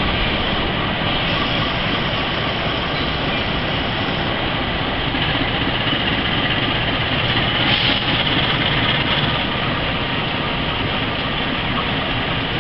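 Diesel-electric locomotive running steadily as it pulls a passenger train slowly past.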